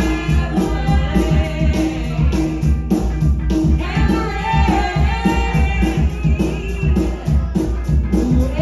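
Live rock band playing, with a singing voice over a steady drum and bass beat.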